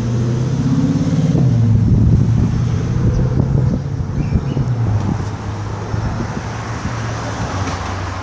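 Motor vehicle engine running with a steady low hum, louder in the first half and fading after about four seconds.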